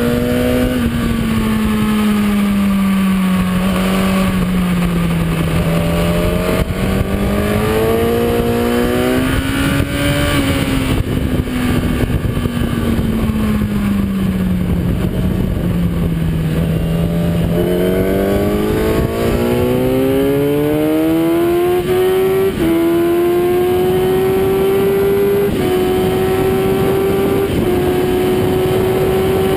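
Kawasaki ZX-10R inline-four sportbike engine at track speed: revs drop and pick up again twice through corners, then a long pull with the pitch rising in steps as it shifts up about three times near the end. Wind rush on the onboard microphone runs underneath.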